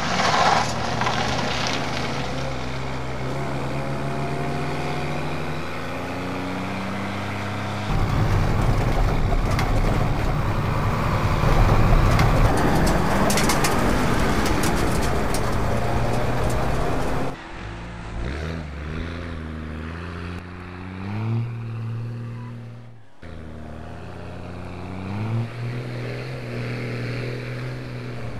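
Car engine accelerating hard through the gears, its pitch climbing and dropping back in repeated steps with each shift. A louder stretch of engine and road noise runs through the middle and cuts off abruptly, then the engine climbs through the gears again.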